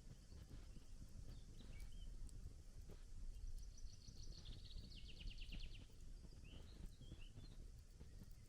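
Faint crackling of a wood campfire, with scattered small pops. A songbird sings a fast trill from about three and a half seconds in to about six seconds, with short chirps before and after it.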